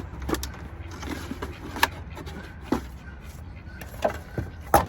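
Knife cutting through a plastic milk jug, the thin plastic giving sharp cracks and crinkles about five times over a faint scraping.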